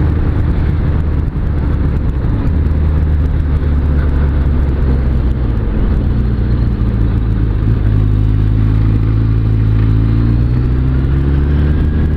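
Suzuki Bandit 600S inline-four engine running under way at a steady cruise, with its pitch rising slightly near the end as it speeds up.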